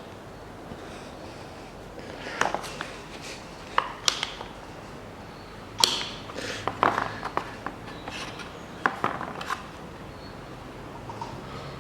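Hand tools clicking and knocking against engine parts in a few short, irregular bursts of sharp taps.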